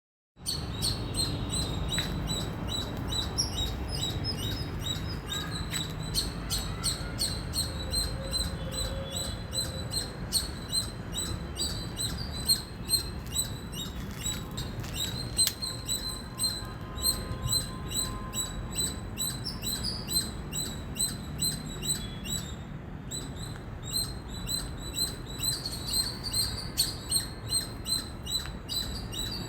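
Indian palm squirrel calling: a steady, long run of short, high, bird-like chirps, a few each second.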